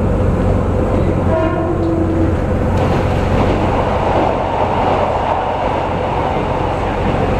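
Diesel train running, heard from inside a passenger car: a steady rumble of engine and wheels. About a second and a half in comes a brief horn tone. From about three seconds in the noise takes on more hiss as the train enters a tunnel.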